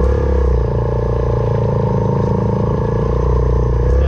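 Suzuki Van Van 125's single-cylinder four-stroke engine running at steady revs through an aftermarket full exhaust system.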